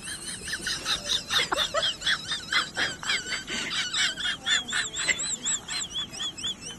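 High, rapid chirping that repeats several times a second, turning in the second half into a steady run of rising-and-falling warbled notes, like small birds calling.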